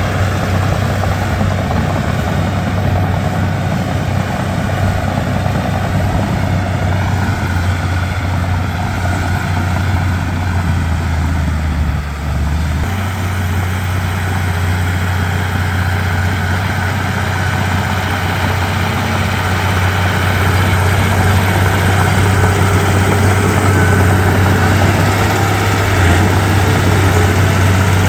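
Komatsu D31P bulldozer's diesel engine running steadily with a deep drone. Its note shifts briefly about twelve seconds in, and it grows louder over the last third.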